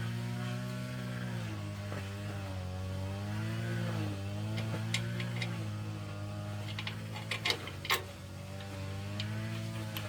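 A motor running steadily, its pitch dipping briefly and recovering several times. A few sharp knocks come about five to eight seconds in.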